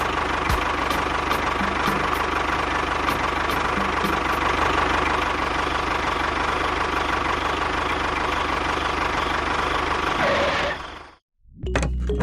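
Small motor of a DIY model construction machine running steadily, then cutting off suddenly about eleven seconds in, followed by music.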